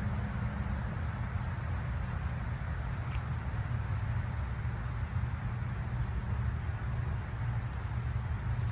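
Steady outdoor creek-side noise: a constant low rumble and hiss, with a thin, continuous high-pitched insect trill over it.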